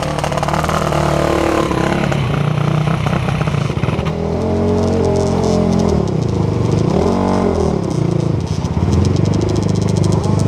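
Off-road racing ATV engine running and being revved, its pitch rising and falling with the throttle, with one clear sweep up and back down about two-thirds of the way through.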